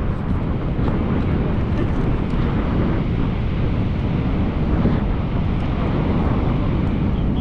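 Steady rushing roar of Horseshoe Falls, with wind buffeting the microphone.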